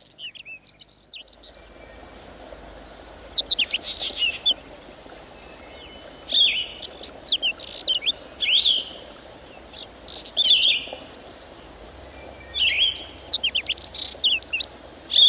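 Songbird singing: repeated short phrases of quick, high whistled notes sweeping up and down, coming every couple of seconds, over a steady high-pitched hiss.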